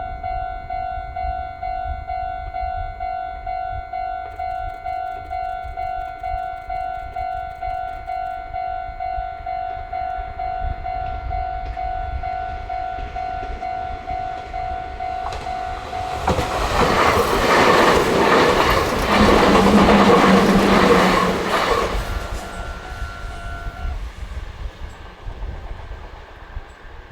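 Level-crossing warning bell ringing in a steady, rapidly repeating ding. About 16 seconds in, a Meitetsu train passes through the crossing, loud for about six seconds, with a horn sounding for about two seconds as it goes by. The bell stops a couple of seconds after the train has cleared.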